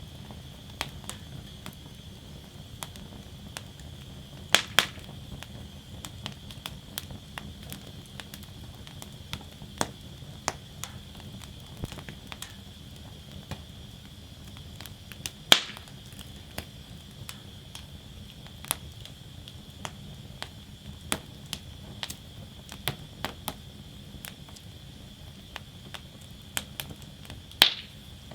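Wood burning in a fire basket: a steady low rumble of flames with constant small crackles, and three loud sharp pops about 5, 16 and 28 seconds in.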